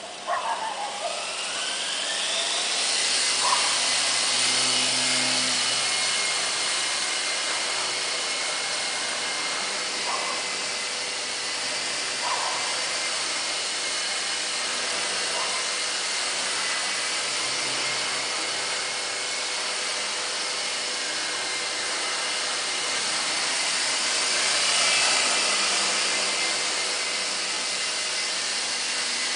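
Nine Eagles 209A radio-controlled helicopter's electric motor and rotors spinning up with a rising whine, then running steadily at a high whine, with a few brief knocks along the way.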